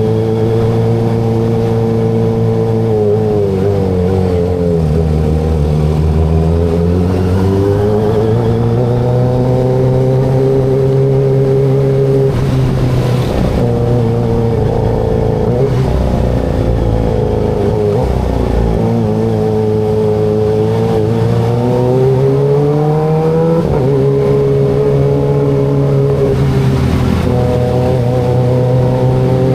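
Kawasaki ZX25RR's 249 cc inline-four engine running while riding in town. The engine note drops as the bike slows a few seconds in, climbs back and holds steady, then dips and rises again about two-thirds of the way through, climbing again near the end.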